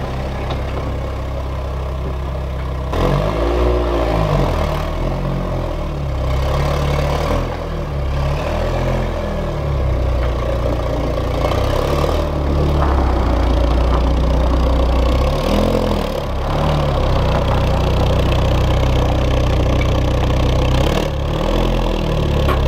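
Volkswagen Golf Mk3's engine running as the car creeps forward at low speed, getting steadily louder as it comes closer, with its note swelling and dipping a few times.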